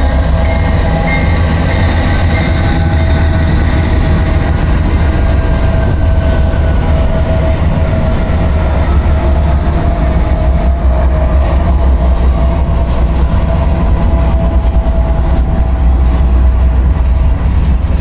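Norfolk Southern freight train passing at close range: the diesel locomotives run with a deep steady rumble and a whine that slowly drops in pitch as they go by, followed by loaded gondola cars rolling and rattling on the rails.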